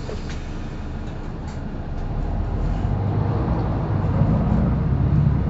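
Interior ride noise of a Mercedes-Benz O530 Citaro articulated bus: a steady low engine and running rumble that grows louder from about two seconds in.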